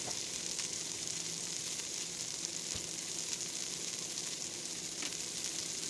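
Shredded coleslaw mix (cabbage and carrot) sizzling steadily in hot olive oil in a pot.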